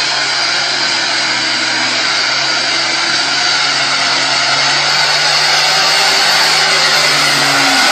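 A heavy truck's engine running steadily, a low hum under a dense, even rushing noise; the hum sags slightly in pitch near the end.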